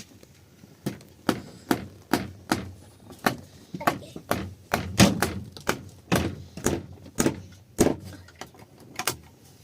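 A run of sharp knocks, roughly two a second and slightly uneven, starting about a second in and stopping near the end.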